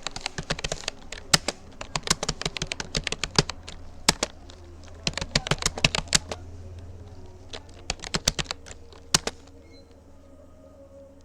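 Rapoo computer keyboard being typed on at a steady touch-typing pace, quick runs of key clicks broken by short pauses. The typing stops near the end.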